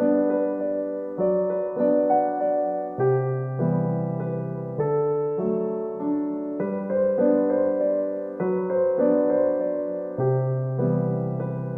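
Background music: a soft piano or electric piano playing slow, gentle chords. Each note or chord is struck and then fades, with a new one every half second or so.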